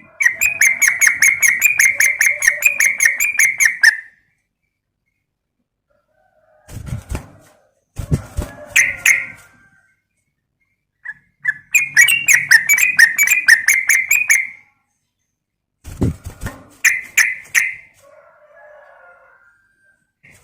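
Yellow-vented bulbul (trucukan) calling: two long runs of fast, evenly repeated chattering notes, with shorter phrases between them. A few low thuds come with some of the shorter phrases.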